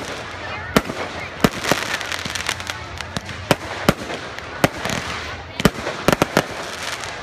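Aerial fireworks shells bursting: about a dozen sharp bangs at uneven intervals, with several in quick succession near the end, over a steady background hiss.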